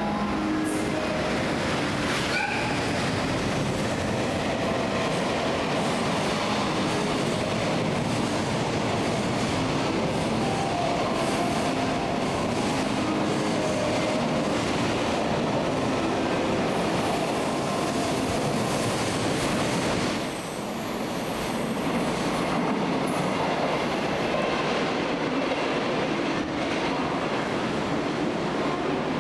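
A train running through a station, with steady rolling wheel and running noise. About twenty seconds in comes a brief, very high-pitched squeal, the loudest moment.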